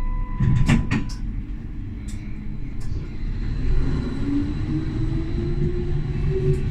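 Tram running with a low rumble: a steady tone stops about a second in, among a few sharp clacks, then the traction motor whine rises slowly in pitch as the tram gathers speed.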